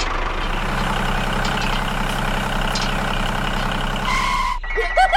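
Engine idling steadily at a constant pitch, cutting off suddenly near the end, followed by a brief high, squeaky gliding sound.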